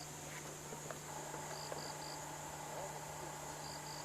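Faint insect chirping, short high chirps in groups of three repeating about every two seconds over a steady high drone.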